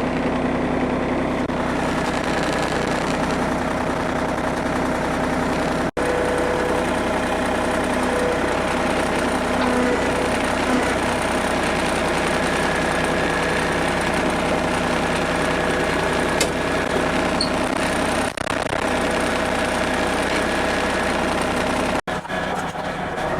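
Compact diesel tractor engine running steadily at a constant speed. The sound breaks off abruptly about six seconds in and again near the end, where the recording is cut.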